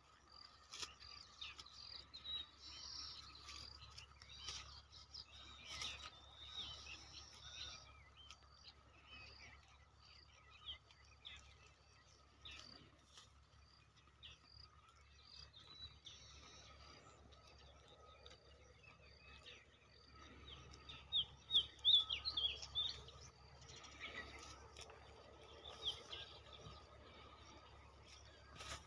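Birds chirping in short, repeated high calls over faint outdoor background noise, with a louder cluster of chirps about two-thirds of the way through.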